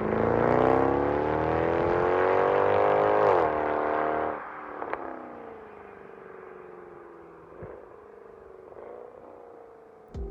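Mercedes-Benz C63 AMG W204's V8 through an aftermarket sport exhaust, accelerating with its pitch climbing for about three seconds, then dropping suddenly as at a gear change. After that the exhaust note falls slowly in pitch and fades away.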